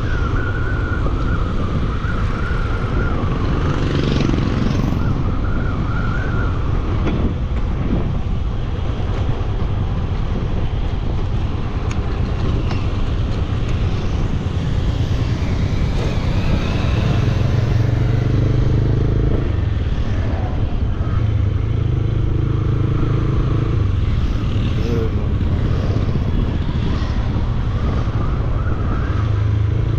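Bajaj Dominar 400 single-cylinder engine running under way, its pitch rising and falling with the throttle, over steady wind and road noise. A wavering high tone sounds through the first few seconds.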